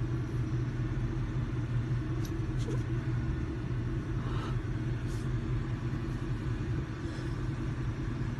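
1967 Ford F100's 352 V8 engine idling with a steady low rumble, with a few faint clicks over it.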